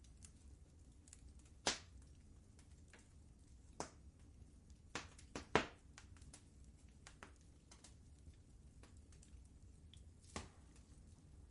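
Wood fire crackling in a fireplace: scattered sharp pops and faint ticks over a low steady rumble. The loudest pops fall at about a second and a half in, in a cluster around five seconds, and once more near the end.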